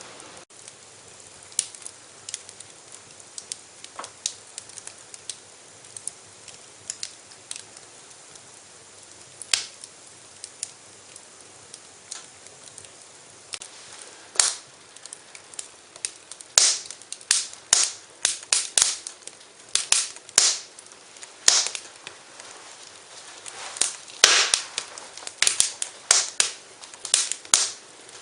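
Wood fire in a fireplace crackling and popping: sharp irregular pops over a faint hiss, scattered at first and coming thick and fast through the second half.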